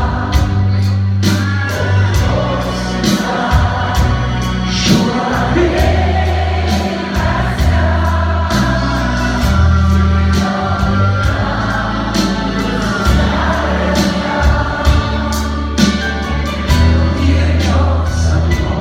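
Live performance by a Soviet-style vocal-instrumental ensemble: voices singing a melody together over a steady beat and deep bass notes.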